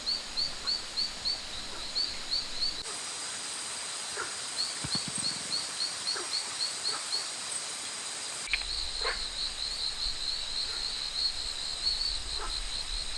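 Rainforest ambience: a creature repeats a high, rapid chirp about four to six times a second in runs, over a steady background hum. A few fainter, lower calls sound now and then. The background changes abruptly twice.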